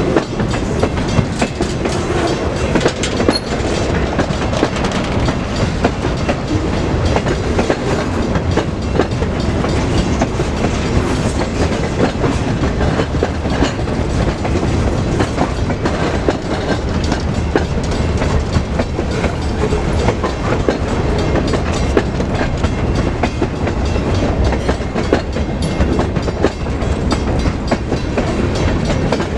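Freight train passing close by, its cars' wheels clacking over the rail joints in a steady, dense rattle.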